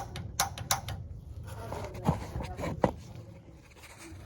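Piezo igniter on a Rheem gas water heater being clicked over and over to relight the new pilot: three sharp clicks in the first second, then some handling noise with two more clicks before it quiets down.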